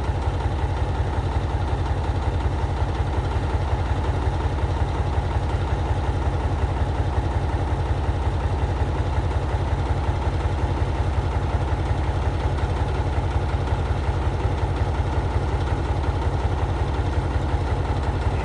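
Diesel engine of a loaded log truck idling steadily, with an even low throb.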